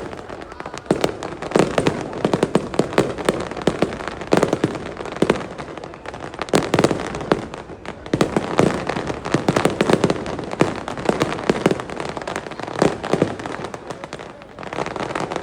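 Aerial fireworks bursting in quick succession: a dense, irregular run of bangs and crackles, several a second.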